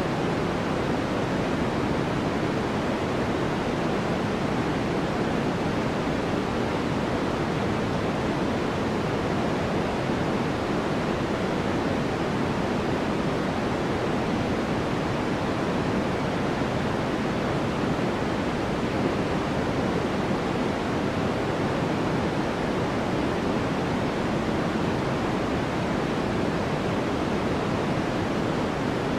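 Steady, even noise with no changes or separate events, fuller in the low-middle range than in the highs: a continuous white-noise track.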